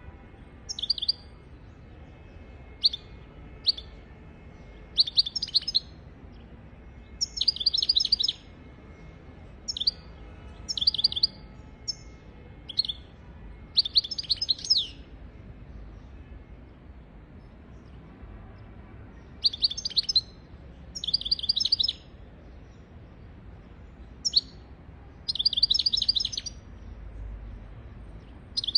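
European goldfinch singing in short bursts of rapid, high-pitched twittering, with pauses of a second or more between phrases.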